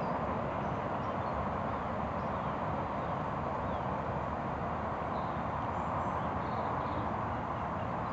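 Steady outdoor background noise, a constant rushing hum with no clear events, with a few faint high bird chirps now and then.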